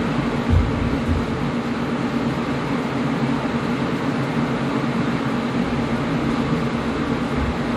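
Air conditioner running with a steady whooshing hum, heavier in the low-mid range, with a brief low thump about half a second in and fainter ones about a second in and near the end.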